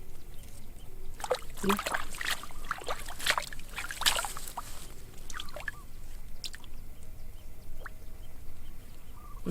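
Water splashing and sloshing in short, irregular splashes, several clustered together with gaps between them.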